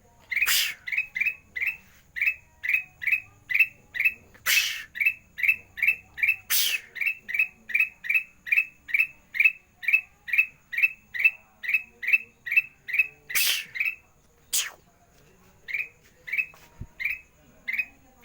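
Kutilang emas (a bulbul) calling non-stop: a fast run of short, identical chirps, about three a second, broken five times by a loud harsh squawk, with a brief pause near the end.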